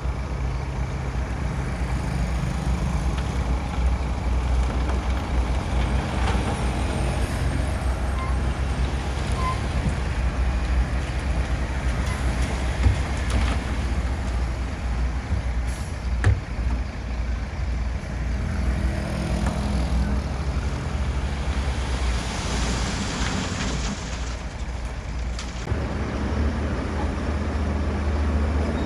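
Bulldozer's diesel engine running steadily under load, a deep low rumble, with a couple of sharp knocks part way through and a stretch of high hissing about three-quarters of the way in before the engine note shifts.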